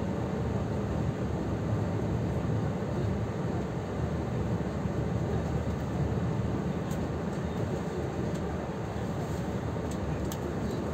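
Steady low rumble of a Taiwan Railways Chu-Kuang express train running, with a few faint light clicks near the end.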